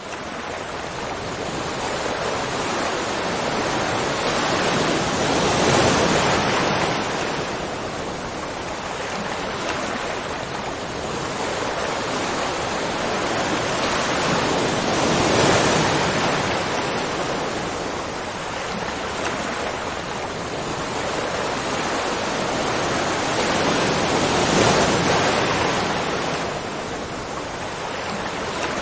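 Rushing water: a dense, steady hiss of moving water that swells and eases about every nine to ten seconds.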